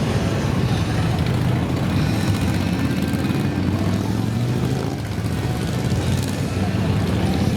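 Many motorcycle engines running together in a steady, dense drone as a column of riders sets off.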